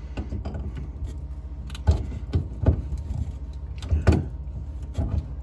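Sink drain pipe fittings being tightened with pliers: scraping, with several sharp knocks and clunks of metal tool on pipe. A steady low hum runs underneath.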